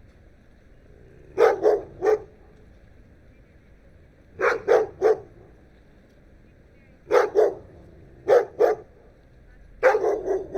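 A dog barking in quick groups of two or three barks, five groups in all, with a pause of a couple of seconds between them, over a faint steady background noise.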